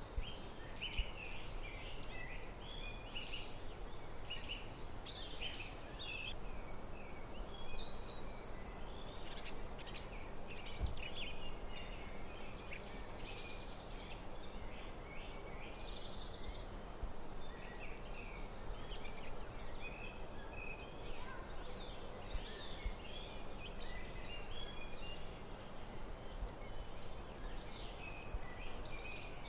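Several forest birds singing and chirping in the background, many short calls and trills overlapping throughout, over a steady outdoor hiss.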